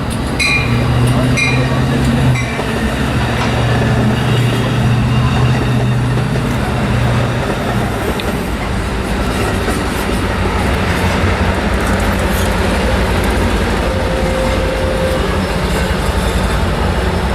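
A passing train: a steady, loud rush of wheel and rail noise, with a locomotive engine's low drone that fades about seven seconds in. A few short high pings sound in the first couple of seconds.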